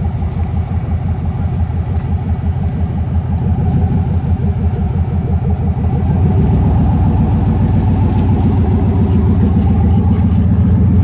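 Car engine idling close by with a deep, pulsing rumble, growing a little louder about halfway through.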